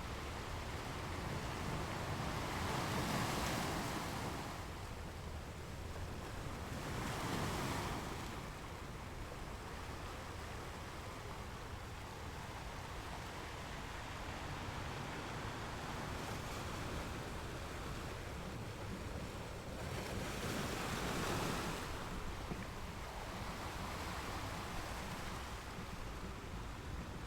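Ocean surf: a steady wash of waves, with three louder breakers swelling and falling away, a few seconds in, again soon after, and once more past the middle.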